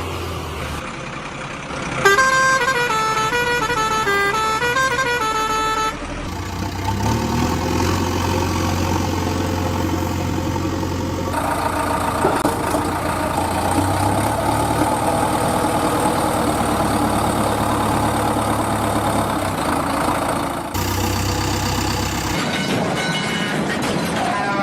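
A short tune of horn-like tones stepping up and down, then small machine motors running steadily, in several abruptly cut segments.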